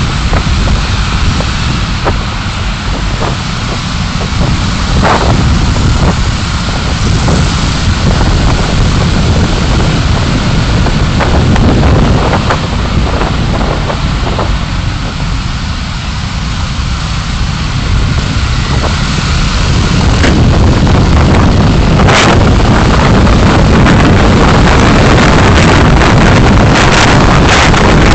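Dashcam recording of a car driving: a loud, steady rumble of road and wind noise with scattered short knocks, getting louder about twenty seconds in.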